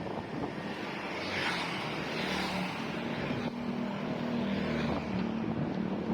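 A motor vehicle's engine running close by, a steady hum that comes in about two seconds in, over road noise and wind on the microphone.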